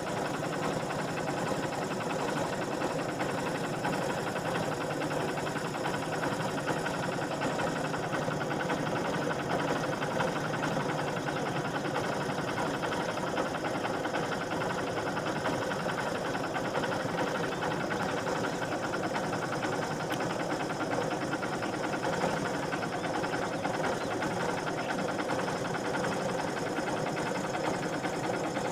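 A vehicle engine running steadily at idle, an even hum with no revving or breaks.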